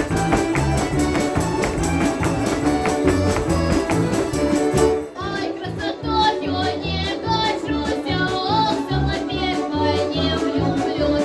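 Russian folk instrument orchestra playing: a dense, rhythmic full-ensemble passage with a steady beat, which about five seconds in drops back to a lighter section carried by a wavering, vibrato-laden melody over the bass beat.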